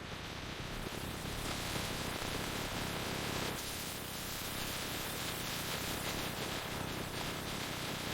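A steady, dense hiss like static, filling low to high pitches evenly with no clear tones or rhythm.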